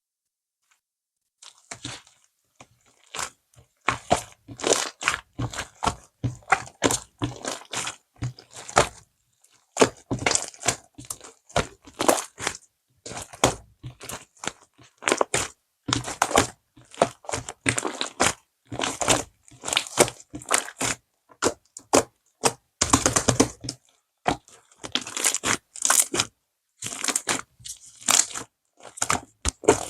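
Slime being squeezed, stretched and pressed by hand, giving many small sharp clicks and pops in irregular bursts with short gaps between them.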